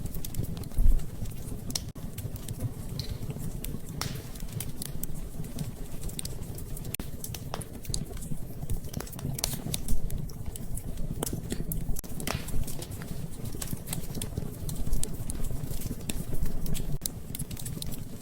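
Wood fire in a fireplace crackling, irregular sharp pops and snaps over a low steady rumble, with a louder knock about a second in and another around ten seconds.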